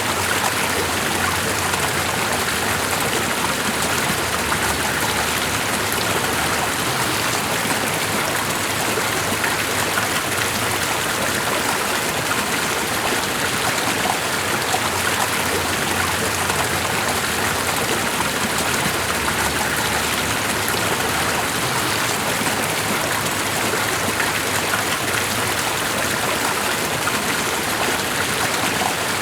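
Continuous rushing water, steady and unchanging, with no separate events.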